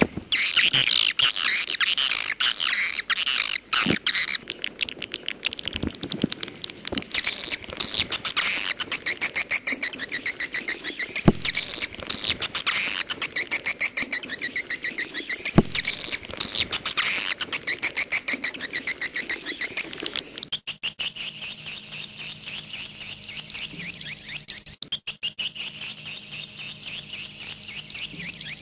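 Swiftlets twittering in a dense stream of rapid chirps and clicks. A little past two-thirds through, the sound changes to a steadier, higher chirping over a faint low hum.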